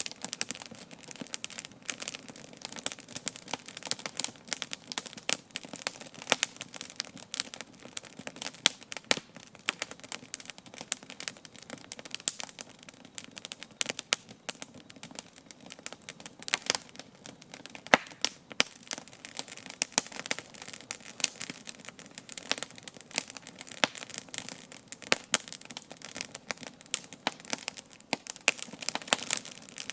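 Wood campfire burning and crackling steadily, with many sharp pops and snaps at irregular intervals.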